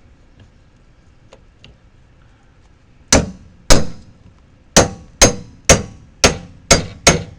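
Metal being struck with a hammer: eight sharp, ringing clangs in quick succession, starting about three seconds in, roughly two a second.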